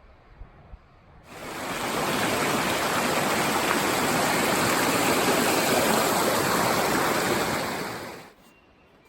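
Rushing water: a loud, steady hiss of fast-flowing water. It comes in about a second in, builds over a second, and cuts off suddenly near the end.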